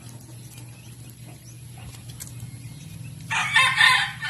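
A rooster crowing once, loudly, starting about three seconds in after a quiet stretch.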